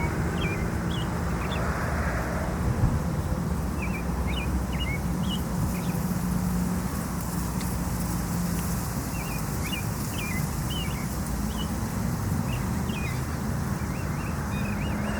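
Steady low rumble of distant motor traffic, with a faint engine hum in it, and small birds chirping in short, quick notes on and off throughout.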